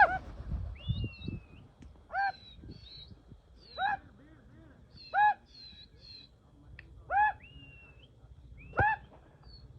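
Birds calling: five loud, short calls, each rising then falling in pitch, about every one and a half to two seconds, with thinner, higher chirps and whistles between them. A sharp knock sounds right at the start.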